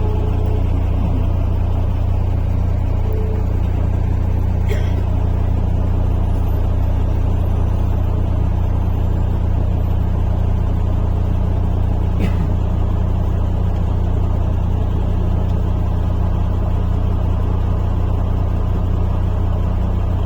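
Interior of a MAZ-103 city bus under way: a steady low engine drone with road and tyre noise, and two short clicks or rattles, about five and twelve seconds in.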